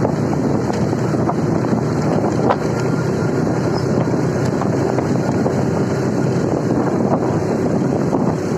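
Steady wind rushing over the microphone with a motorcycle engine running underneath, as heard while riding.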